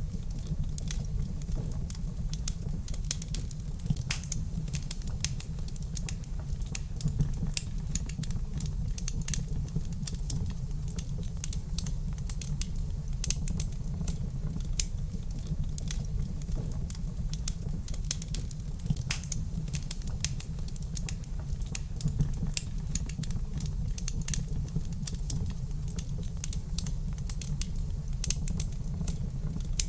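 Wood fire crackling in a fireplace: irregular sharp snaps and pops scattered over a steady low rumble of the burning fire.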